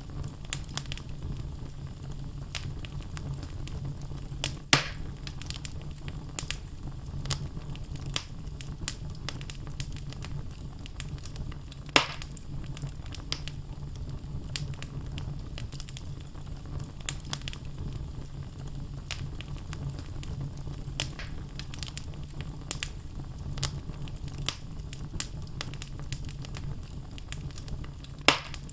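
Wood fire in a fireplace: logs crackling steadily over a low rumble of flame, with three louder pops, about 5 seconds in, about 12 seconds in, and at the very end.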